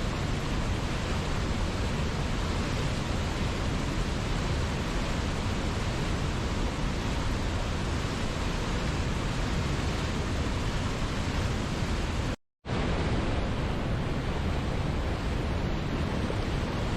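Waterfall water rushing in a steady, even roar with no change in pitch. The sound cuts out completely for a fraction of a second about twelve seconds in, then resumes unchanged.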